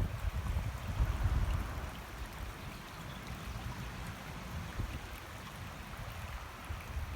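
Flowing water, a steady rushing stream, with a low rumble that is stronger in the first second or two and then eases.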